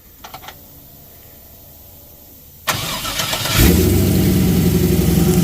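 An old vehicle's engine is cranked over by the starter and catches about three and a half seconds in, then runs loud and steady.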